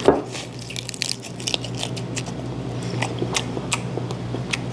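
Close-up eating sounds of a person biting into and chewing a swimming crab (kkotge): scattered short wet clicks and crunches of the crab meat and shell. A faint steady low hum runs underneath.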